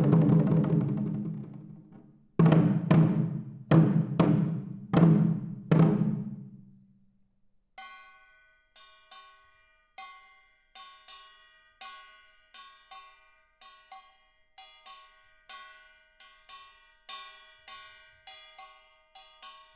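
Traditional Korean percussion (samul nori). A fast drum roll fades out, then come four heavy, ringing low drum strokes. From about eight seconds in, a small brass gong (kkwaenggwari) is tapped lightly and evenly, about one to two strikes a second, each with a bright metallic ring.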